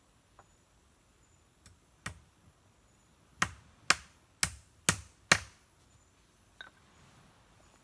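Sharp blows of a tool on wood: one about two seconds in, then five in a quick, even run about two a second.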